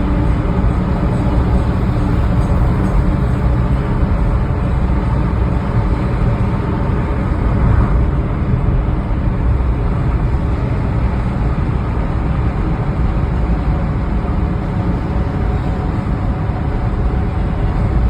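Car driving at a steady speed: a continuous low rumble of engine and road noise that stays even throughout.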